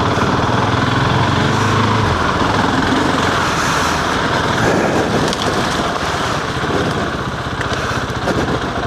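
Husqvarna 701's single-cylinder four-stroke engine running under load as the motorcycle rides up a hill. The engine note is steady for about two seconds, then becomes rougher and less even.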